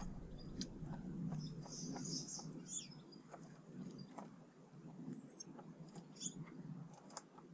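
Small garden birds giving short, high chirps and calls, bunched in the first half and again about six seconds in, with scattered light ticks and a low steady background rumble.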